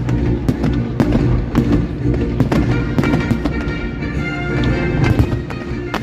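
Fireworks going off in quick succession, many sharp bangs and cracks a second, together with music playing.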